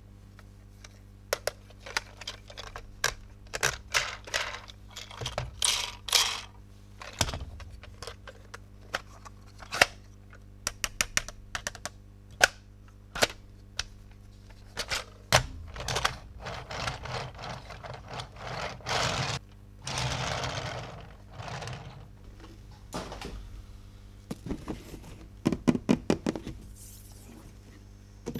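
Hard plastic toy pieces being handled: many sharp, irregular clicks and taps, with a couple of short stretches of rustling.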